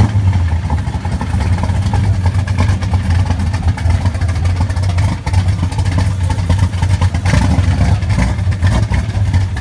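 Loud car exhausts running at a car show, a steady deep rumble with no clear rises in pitch.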